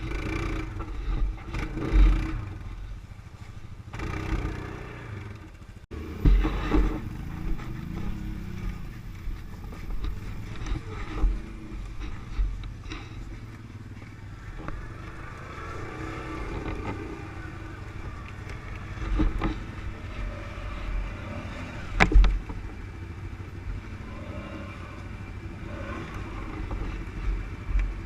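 ATV (quad bike) engine running, its revs rising and falling, with low thumps throughout and one sharp knock about three-quarters of the way through.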